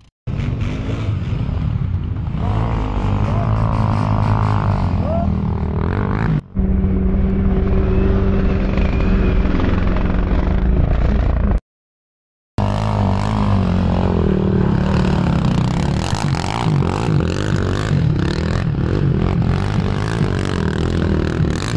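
ATV engines running and revving over several short clips joined by abrupt cuts, with a brief drop-out about six seconds in and a full second of silence near the middle.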